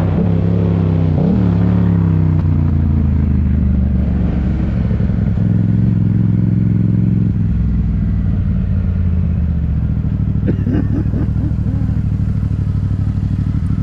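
Motorcycle engine running at low revs, with a short throttle blip about a second in, then settling to a steady, even run.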